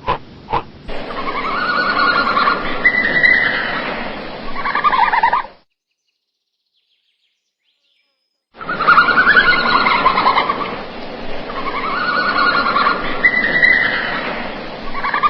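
Recorded animal calls, a few seconds of squealing cries, played twice with about three seconds of silence between.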